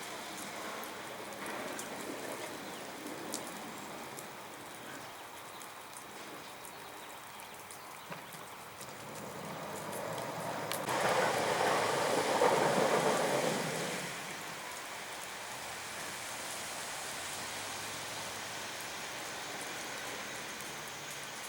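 Steady hiss of freezing rain falling on hard surfaces, with scattered sharp ticks. About nine seconds in, a louder rushing noise swells, peaks a few seconds later and fades away.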